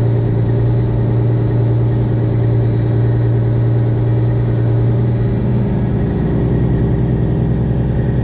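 Straight-piped Detroit Diesel 12.7 in a Freightliner Classic XL semi truck running at a steady low speed; about five or six seconds in its note changes and a deeper low rumble comes in.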